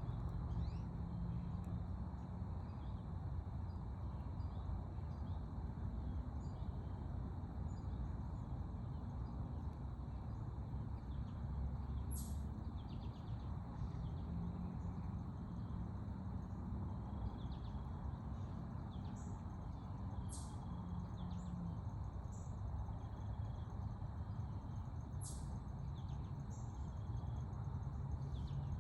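Forest trail ambience: a steady low rumble with scattered brief, high bird chirps, three of them standing out across the stretch.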